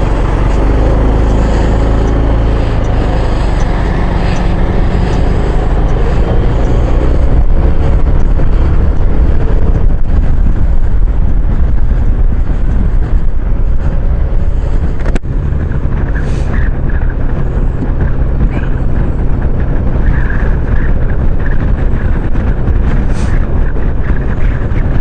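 A maxi-scooter riding along the road: heavy wind rush over an uncased action camera mounted on the scooter, mixed with the engine running. A single sharp click comes about halfway through.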